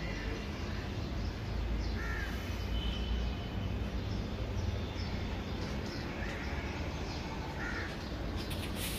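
Two short bird calls, like caws, about two seconds in and again near the end, over a steady low rumble.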